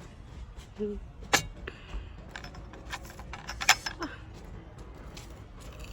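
Eating at a table with a few sharp clinks of tableware, the loudest about a second and a half in and again just under four seconds in, between smaller ticks and mouth sounds.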